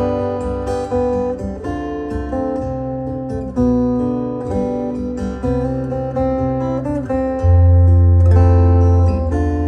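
Martin OMC-1E acoustic-electric guitar played through an amplified speaker: picked melody notes over ringing bass notes, with a loud low bass note struck about seven and a half seconds in.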